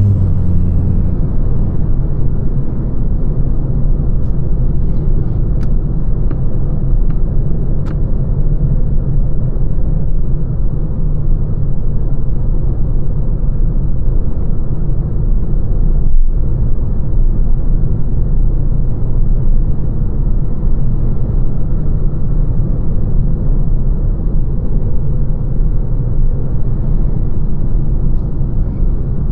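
Lancia Ypsilon hatchback driving at a steady speed: continuous low road and tyre rumble with a few faint clicks. A low pitched hum fades out in the first second.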